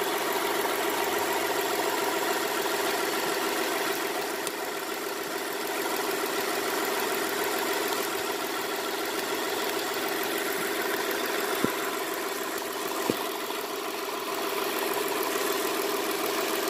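2003 Kia Sorento engine idling steadily, heard up close from the engine bay, run warm so the cooling system pressurises and the leaking heater hose shows itself. Two short, sharp clicks sound in the second half.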